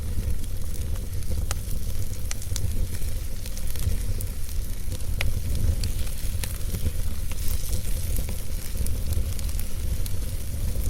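Wood fire burning in a fireplace: scattered sharp crackles and pops from the logs, about a dozen in all, over a steady low rumble.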